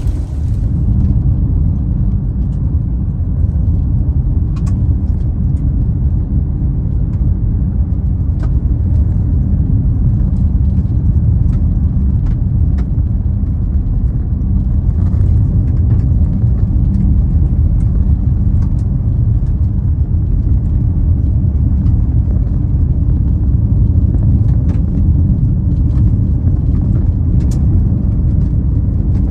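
Steady low rumble of a car driving at speed, heard from inside the cabin: road and engine noise, with a few faint scattered ticks.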